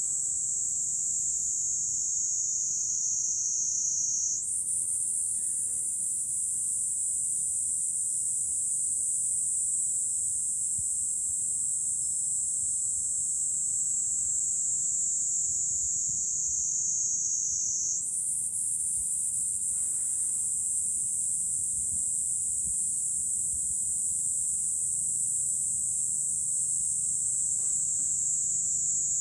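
Cicadas singing in a dense, continuous high-pitched chorus in midsummer. Its pitch slowly sags, then steps up suddenly twice, about four seconds in and again about eighteen seconds in.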